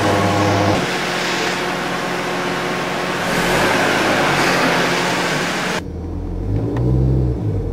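Mazda car's engine running and revving as it pulls out. About three quarters through it cuts off abruptly to a lower, steadier engine rumble heard inside the cabin.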